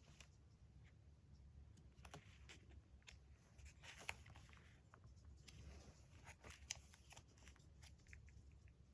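Faint handling of magazine paper: soft rustling with scattered small taps and clicks, two sharper clicks about four and seven seconds in.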